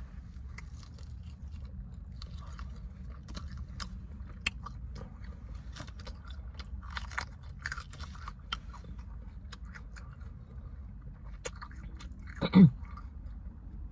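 Close-up chewing and biting of fried chicken wings, with many small crisp crunches throughout. Near the end comes one short, loud vocal sound that drops in pitch.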